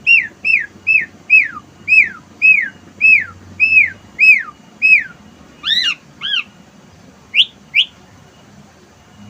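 Asian pied starling (jalak suren) singing, its song built from copied wild-bird calls: about a dozen loud, clear whistles, each falling in pitch, at roughly two a second. Two harsher notes follow, then two short rising calls near the end.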